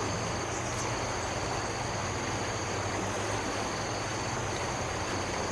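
Insects trilling steadily in two constant high pitches, over an even background hiss and a steady low hum.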